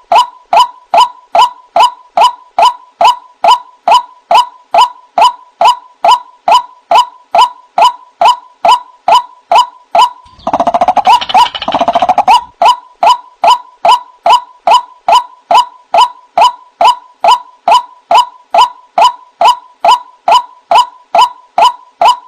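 White-breasted waterhen (ruak-ruak) calling, a short 'kruak' note repeated evenly about two and a half times a second, from a looped bird-trapping lure recording. About halfway through, a two-second burst of denser, harsher overlapping calling breaks in before the steady repeat resumes.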